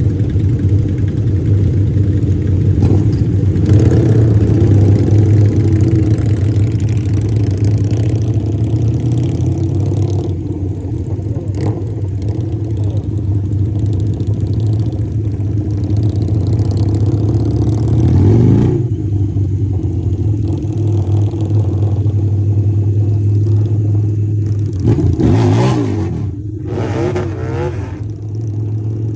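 Harley-Davidson V-twin motorcycle engine running steadily under way. Its pitch rises and falls with revs about 18 seconds in and again about 25 to 27 seconds in.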